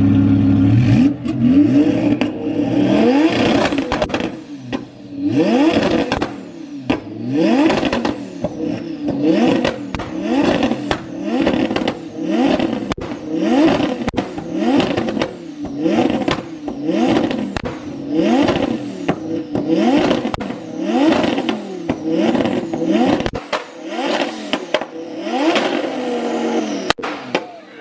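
High-performance car engine revved hard over and over, about one sharp blip every one to two seconds. Each rev rises and falls in pitch, with a crackle at its peak.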